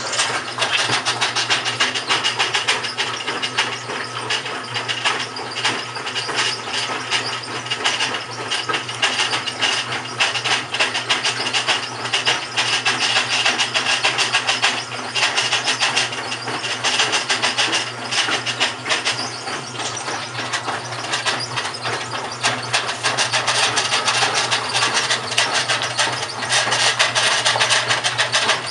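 GE washing machine (model WHDSR315DWW) running with a continuous rapid grinding rattle over a steady motor hum. The owner wonders whether the transmission is going bad.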